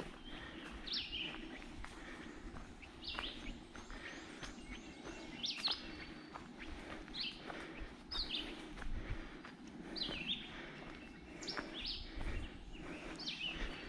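A songbird repeating a short, sharp chirping phrase about every second or two, with soft footsteps beneath it.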